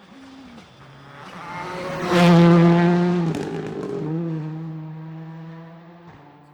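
A racing car passes close by at speed. Its engine note swells to its loudest a little over two seconds in, shifts pitch a few times, then fades as the car moves away.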